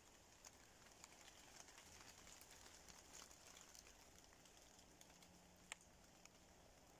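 Faint light rain: scattered raindrops ticking on oak leaves over a soft hiss, with one sharper drop a little before the end.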